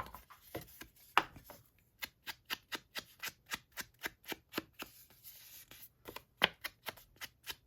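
Scissors snipping paper in quick, even cuts, about four to five snips a second.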